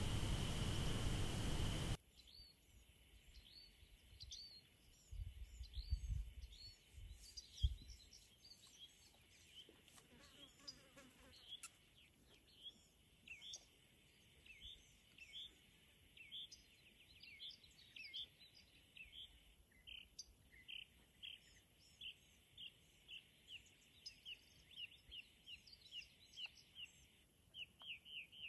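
Quiet outdoor ambience with a small bird chirping over and over, short chirps a second or so apart that come faster, about three a second, near the end. It is preceded by a couple of seconds of loud steady hiss. A few soft low thumps come around five to eight seconds in.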